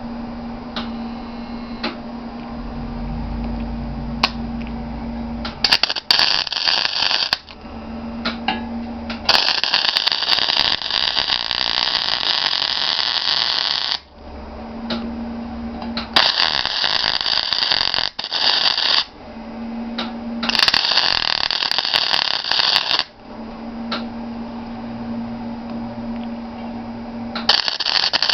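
Arc welding on a steel mini bike frame: a series of crackling, hissing weld beads, each one to five seconds long, with short pauses between them in which a steady low hum is heard.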